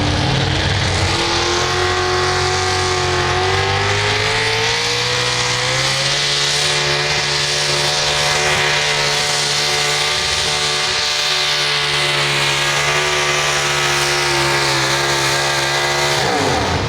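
Pulling tractor's engine at full throttle during a run on the track. Its pitch climbs over the first several seconds, holds high and steady, then falls sharply near the end as the throttle comes off.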